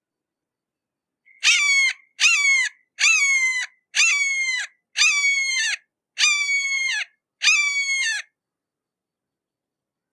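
Red-shouldered hawk calling a series of seven harsh, down-slurred "kee-ah" screams, about one a second, starting a little over a second in and stopping about two seconds before the end.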